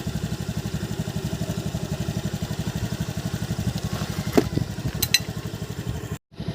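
A small engine idling with a rapid, even beat. Two sharp metallic clinks come about four and five seconds in, and the sound cuts out for a moment near the end.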